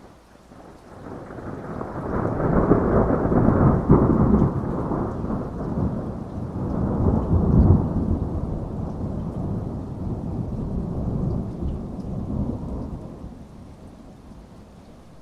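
Thunder over steady heavy rain: a long, low roll that builds from about a second in, swells twice, and dies away over the following several seconds.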